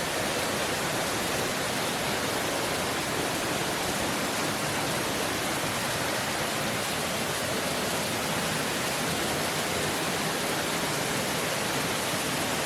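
Dry Falls, a waterfall carrying a heavy flow of water, pouring down with a steady, even rush that does not change.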